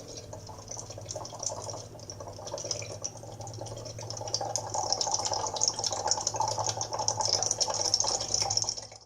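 Sound sculpture giving a dense crackling texture with a bright hiss high up and a low steady hum beneath. It grows louder about halfway through, then cuts off abruptly.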